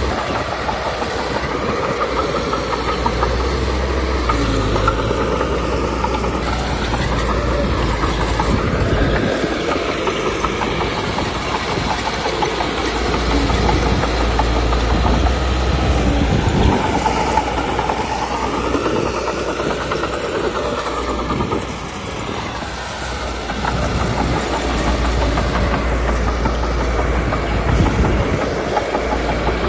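Komatsu D21P crawler bulldozer working: its diesel engine runs under load, rising and falling in pitch as it pushes, together with the clatter of its tracks. The sound eases briefly a little after the middle.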